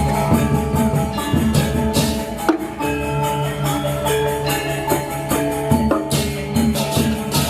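Balinese gamelan playing: ringing metallophone tones over repeated cymbal clashes.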